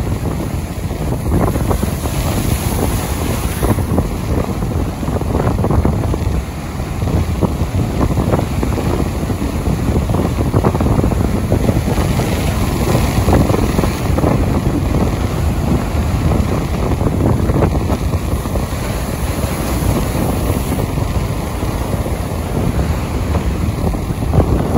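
Strong wind buffeting the microphone: a loud, steady rushing roar that swells and eases slightly in gusts.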